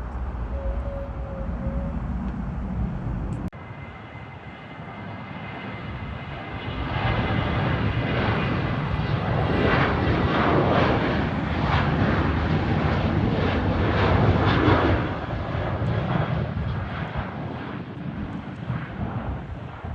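Airliner passing close by: engine rumble and a steady high whine building up, loudest around the middle, then fading away. An abrupt change about three and a half seconds in, where an earlier low rumble cuts off.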